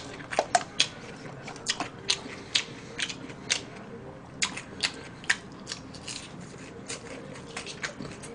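Close-miked chewing of french fries: a string of short, crisp clicks and crunches at an irregular pace, with wet mouth sounds.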